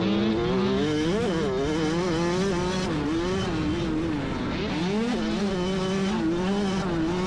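Several dirt bike engines revving at once, their pitches rising and falling and overlapping as the bikes accelerate and back off.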